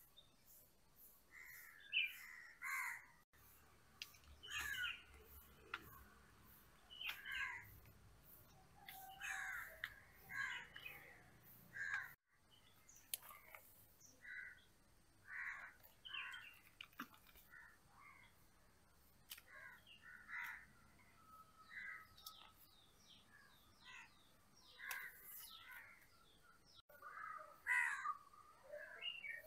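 Crows cawing over and over, one short call every second or two, with other birds faintly in the background.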